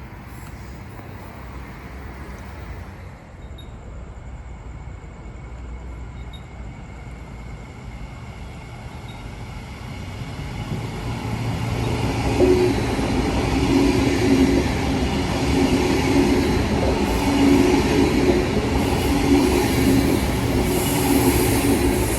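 A Brisbane suburban electric train approaching and running past. It is faint at first, grows louder about ten seconds in, then stays loud with a pulsing low hum and rail noise.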